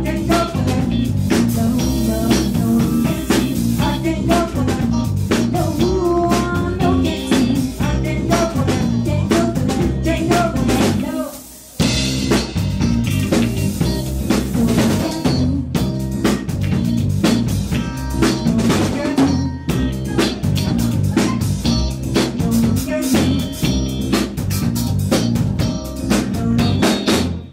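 Live band music driven by a drum kit, with electric guitar. About eleven seconds in, the music drops away briefly, then jumps back in, and it fades out at the end.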